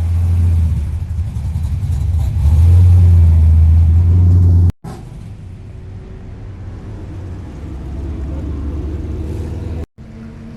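A car engine running with a deep, steady rumble that gets louder about two and a half seconds in, then cuts off abruptly; a quieter, steady engine rumble follows.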